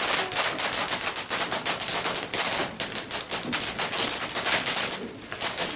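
Firework crackling: a fast, dense run of small sharp cracks that thins out about five seconds in.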